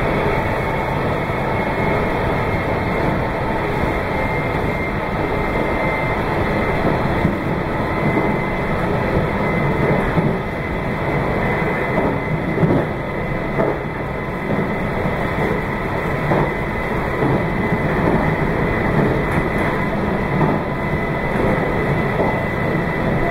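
Meitetsu 2200 series electric train running at speed: a steady rumble of wheels on rail, with a faint steady high whine and scattered clicks from the wheels passing over rail joints.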